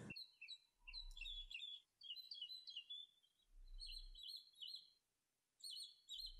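Faint birdsong: small birds chirping in quick clusters of short, high notes, with brief pauses between clusters.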